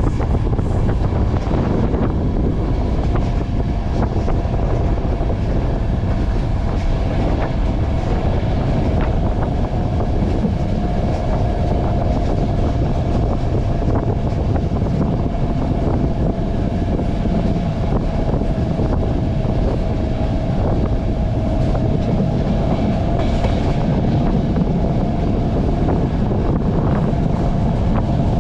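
Bulgarian Railways (BDZ) passenger train running at speed, heard from on board: a steady, loud rumble of wheels on the rails with occasional clicks. A thin steady whine comes in a few seconds in and holds.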